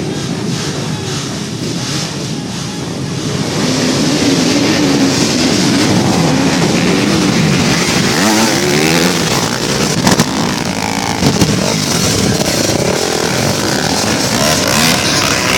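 Motocross dirt bike engines revving hard, rising and falling in pitch with the throttle. They grow louder about three or four seconds in and stay loud, with a couple of sharp clicks near the middle.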